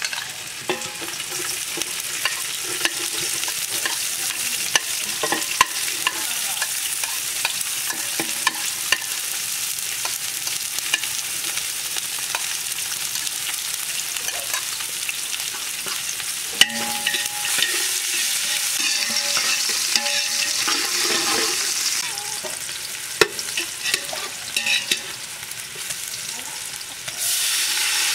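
Chopped onion and green chilies sizzling in hot oil in an aluminium pot, with a metal spatula scraping and clinking against the pot as they are stirred. Near the end water is poured in and the hiss turns suddenly louder.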